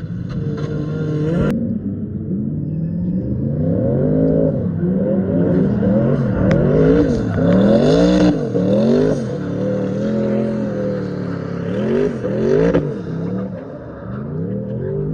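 Car engine revved hard again and again, its pitch rising and falling about once a second, after a steadier run in the first few seconds. There is a single sharp click about a second and a half in.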